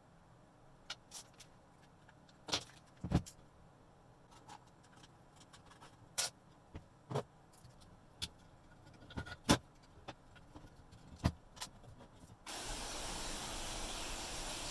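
Scattered light clicks and knocks, then, about two seconds before the end, a steady spray hiss from an aerosol spray-paint can that starts abruptly and holds even.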